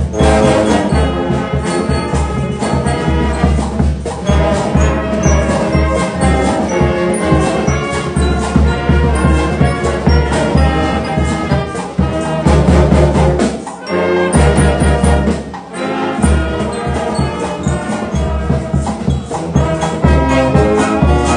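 Brass band playing, horns over a steady beat, with two brief dips in loudness a little past the middle.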